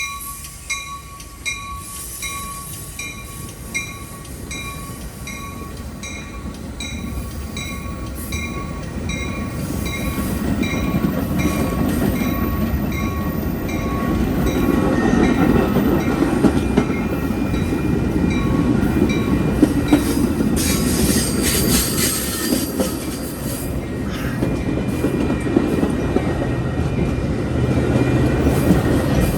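Metra commuter train pulling out and running past: wheel and rail noise builds over the first ten seconds or so into a steady rumble with clatter, loudest past the middle. Over the first dozen seconds a pitched ding repeats about once a second, then fades under the train.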